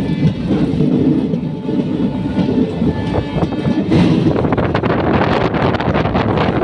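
Passenger train running along the track, a steady loud rumble of the carriages. About four seconds in, a rushing hiss like wind on the microphone joins it.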